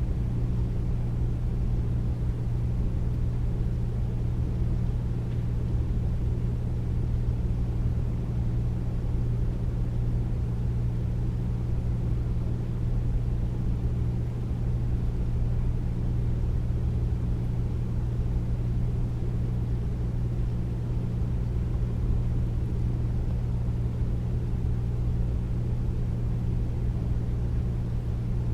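Air conditioner running steadily, a deep even hum with a rush of air over it, unchanging throughout.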